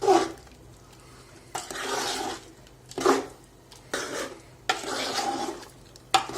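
A cooking utensil stirring curry gravy in a pot, scraping against the pot in about six separate strokes spread over a few seconds.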